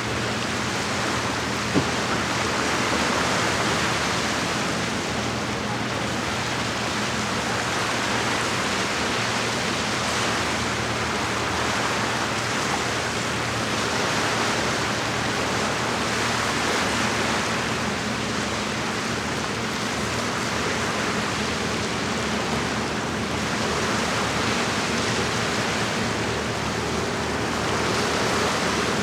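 Lake water washing against the shore as a steady rush that swells and eases gently every few seconds, with a faint low hum underneath.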